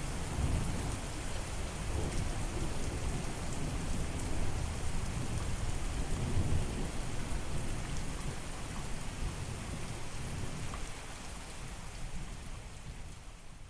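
Steady heavy rain with low rolling thunder rumbling underneath, the whole thing fading down near the end.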